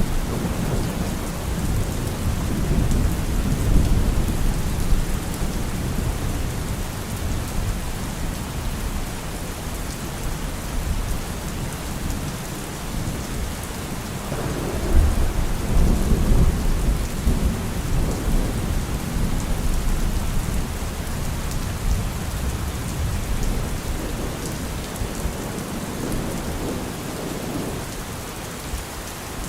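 Heavy rain falling steadily on a car roof, with thunder rumbling low underneath; a fresh roll of thunder swells about halfway through.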